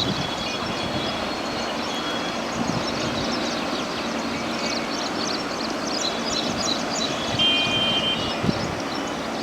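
Passenger train running past with a steady rumble of coaches on the rails. Short high chirps sound over it, with a brief high steady tone about seven and a half seconds in.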